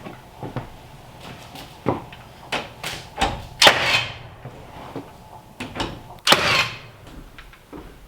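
A series of knocks and clatter, with two louder sharp bangs about three seconds apart, each followed by a short hiss.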